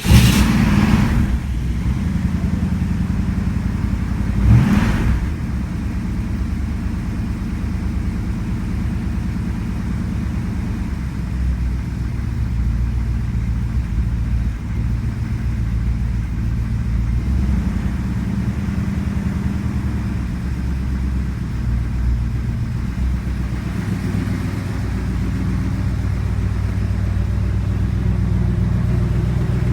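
Old carbureted car engine running just after a cold start, revved up briefly right at the start and again about four and a half seconds in, then settling into a steady idle. The engine is cold after sitting for days, described as cranky.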